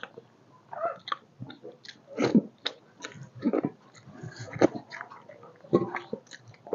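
Close-miked eating of rice and curry by hand: irregular wet chewing, lip-smacking and mouth clicks, with soft squishing as the food is mixed with the fingers on a metal plate.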